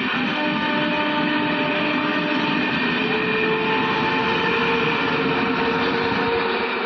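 A train running across a railway bridge: a steady, loud rumble with several held tones over it, and a further tone joining about three seconds in.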